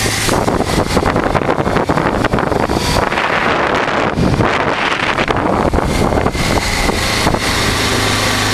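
Honda Transalp's V-twin engine running on the road, mixed with heavy wind noise on the microphone. Near the end the engine note settles into a steady hum.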